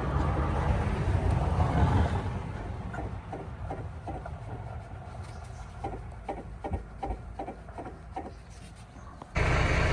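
Irregular knocks and rattles from a Volvo VNL truck's alternator being rocked by hand: play in the unit, which the driver suspects comes from worn alternator bearings. Shortly before the end a steady low engine sound cuts in suddenly.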